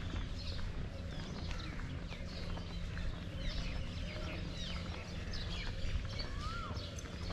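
Many birds chirping in short, overlapping calls, over a steady low rumble.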